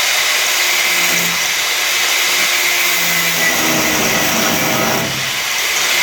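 Electric power tool running steadily under load with a high whine, cutting through the welds that hold a car body panel on.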